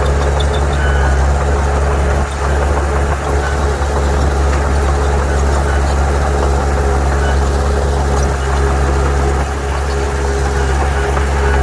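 Heavy diesel engine of earthmoving machinery running steadily at constant speed, a loud low drone with a thin steady higher tone over it.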